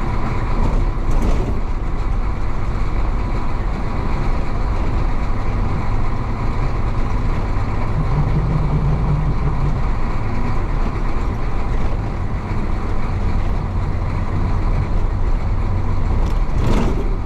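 1966 Isuzu BXD30 bonnet bus's DA640 diesel engine running steadily under way, heard from on board as a loud low drone. It swells briefly partway through, with a short burst of noise about a second in and again near the end.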